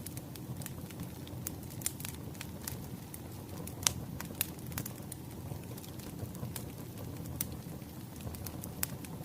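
Burning firewood crackling, with irregular sharp pops over a low steady rumble of the fire; the loudest pop comes about four seconds in.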